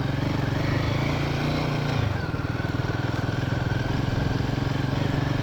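Royal Enfield Himalayan 450's single-cylinder engine running steadily at low speed on an off-road trail, easing off slightly about two seconds in.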